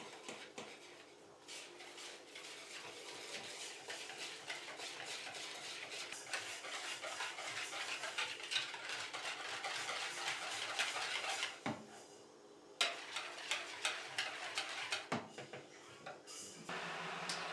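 Dishes and cutlery being handled, with a dense run of clinks and scrapes and a short pause about twelve seconds in. A steady hum starts near the end.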